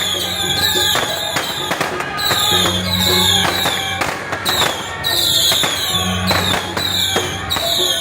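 Firecrackers going off in sharp cracks over loud, repetitive procession music.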